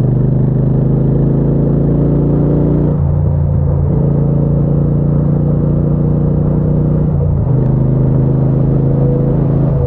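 Triumph Bonneville T120's 1200 cc parallel-twin engine running steadily under way, a low, even engine note. The note breaks up briefly twice, about three and seven seconds in.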